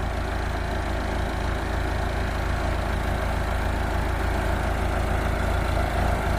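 Backhoe engine running steadily at a low, even speed.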